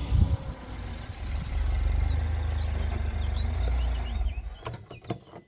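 Mini Cooper Roadster S with its 1.6-litre turbocharged four-cylinder engine running at low revs as it rolls in and pulls up, with a low, slightly pulsing engine note. The engine note fades about four seconds in and a few sharp clicks follow near the end.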